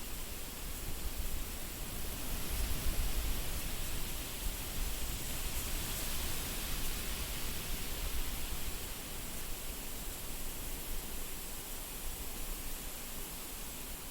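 Steady wind blowing, a hiss across the whole range over a low rumble that swells in a gust about three seconds in.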